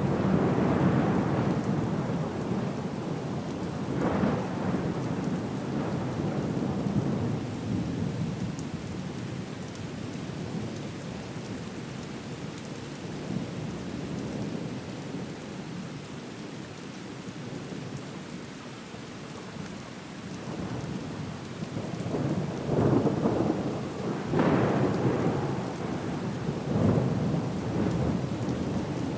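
Thunderstorm: steady rain with low rolling rumbles of thunder. The rumbles swell at the start, again about four seconds in, and in a louder cluster near the end.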